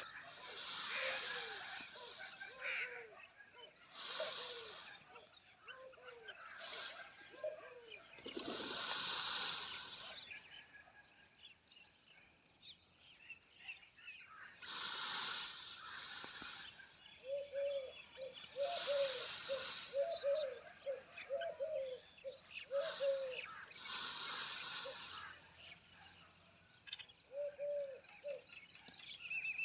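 Pigeons cooing in runs of short repeated notes, with small birds chirping. Several rushes of noise about a second long come and go throughout.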